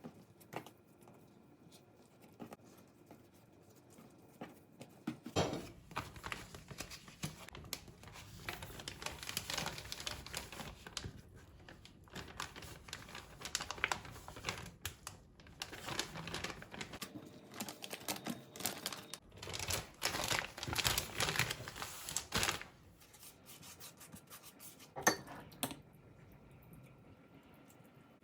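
Kitchen handling noises: crinkling and rustling with many quick small clicks, in busy stretches after a quiet start, ending with one sharp click.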